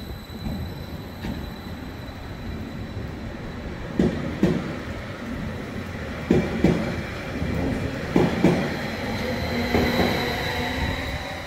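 Eurobahn Stadler FLIRT electric multiple unit pulling away and gathering speed past the platform. Four paired clacks mark its wheel pairs crossing a rail joint, coming closer together as it speeds up, over a running rumble and an electric whine that grows louder.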